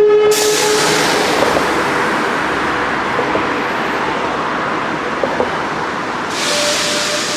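Train passing with a steady rolling noise of wheels on rails, a few short clicks about five seconds in, and the sound turning brighter and hissier near the end.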